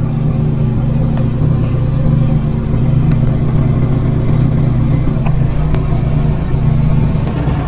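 Car engine running steadily at a low, even pitch.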